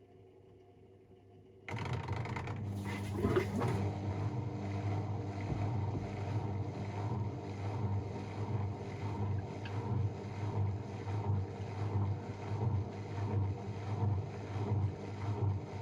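AEG Protex Plus front-loading washing machine spinning fast in its final spin, a loud steady rush over a pulsing low hum, cutting in suddenly about two seconds in after a near-quiet pause.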